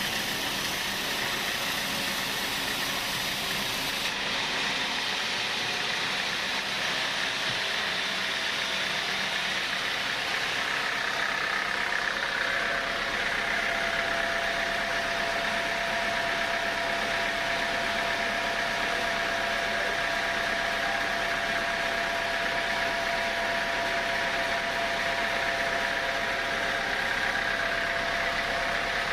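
Sawmill saw running steadily, a continuous machine noise with a high whine that grows stronger after several seconds.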